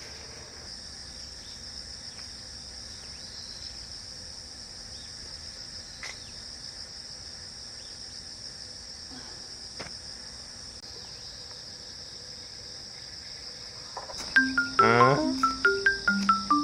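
Steady high-pitched chorus of insects. About two seconds before the end, background music with plucked, marimba-like notes comes in and becomes the loudest sound.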